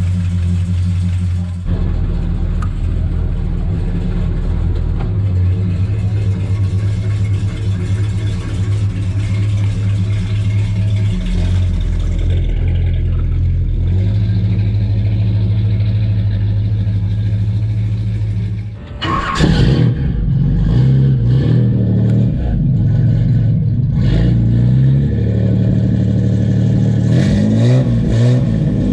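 A car engine idling steadily, then revved several times from about two-thirds of the way through, its pitch rising and falling.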